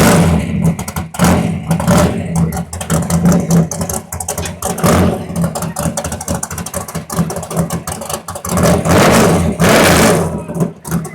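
A car engine revving hard with a rapid crackle, surging louder near the end.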